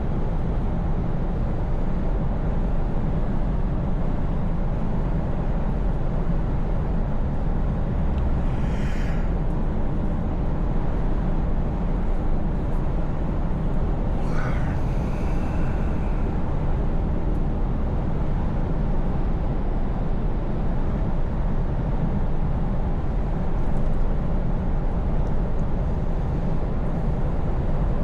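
Scania S580's V8 diesel engine running steadily at cruising, a constant low drone. Two brief higher-pitched sounds break in about nine and fifteen seconds in.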